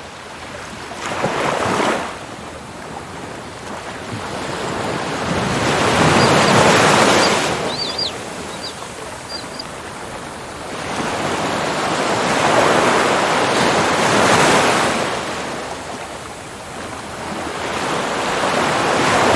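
Ocean waves breaking and washing in, the rush swelling and fading about every five to six seconds. A few brief high chirps come about eight seconds in.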